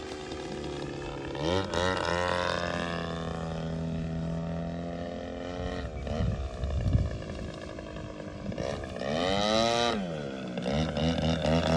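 Engine of a Seagull Models Zivko Edge 540 RC aerobatic plane running in flight. Its pitch swoops up and down as the plane makes passes, about a second and a half in and again near the end, with a loud, rough surge around seven seconds in.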